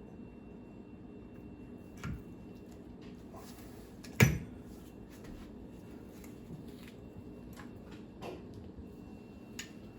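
A few scattered clanks of tools and parts handled during stern drive reassembly, with one sharp, loud clank about four seconds in and lighter knocks before and after.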